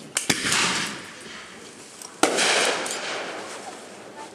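Fireworks going off: a sharp double bang near the start and a single bang about two seconds later, each trailing off in a fading hiss.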